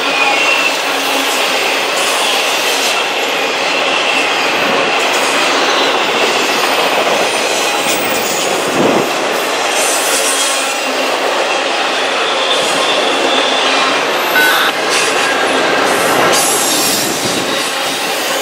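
Norfolk Southern intermodal freight train rolling past close by: a steady rumble and clatter of steel wheels on rail, with a faint high wheel squeal over it.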